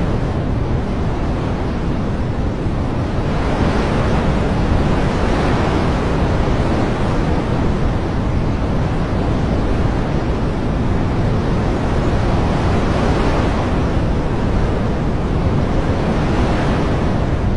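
Steady, loud rushing of water, a dense hiss that swells a little every few seconds.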